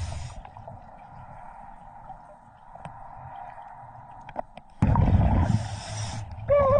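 Scuba diver's regulator breathing underwater: a quieter stretch, then a loud rush of exhaled bubbles about five seconds in.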